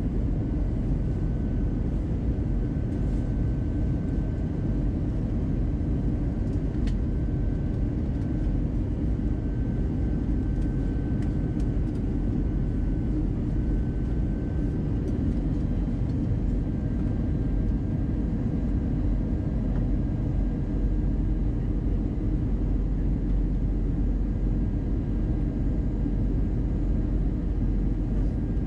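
Steady in-flight cabin noise of an Airbus A320-200: a low, even rumble of airflow and its CFM56 jet engines, with a faint steady high whine.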